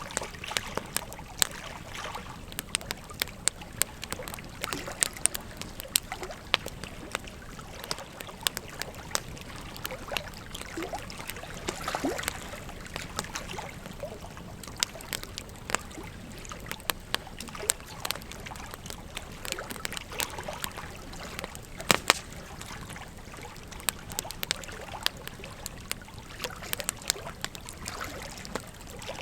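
Wood fire crackling with frequent irregular pops, one standing out louder about two-thirds of the way through, over the steady trickle and rush of a river.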